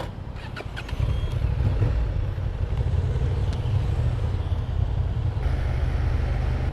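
Motorcycle riding at speed: steady engine and wind rumble on the rider's microphone, getting louder about a second in.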